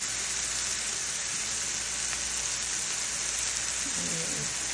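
Skewers of marinated chicken malai boti sizzling steadily in oil in a non-stick pan.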